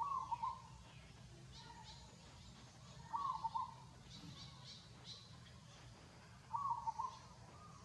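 A bird calling three times, evenly spaced about three seconds apart, each a short warbling call of a few quick notes, with fainter high chirps in between.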